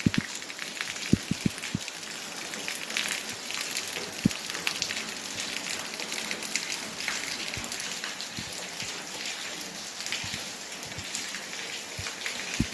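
Rain falling steadily, a dense hiss of drops. A few heavier drops thud close by, about a second in and again around four seconds.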